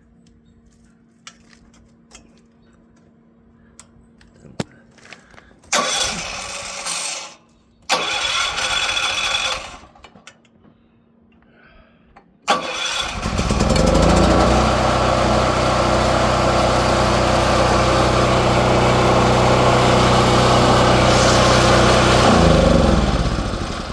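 Choked portable gasoline generator being key-started. There are two short cranks around six and eight seconds in, and a third try about halfway through catches. The engine picks up and runs steadily, then winds down with falling pitch near the end as it is shut off.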